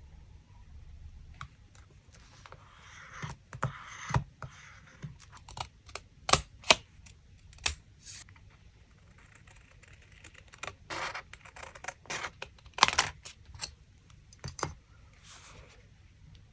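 Paper and crafting tools handled on a tabletop: scattered sharp clicks and taps with a few short bursts of paper rustling.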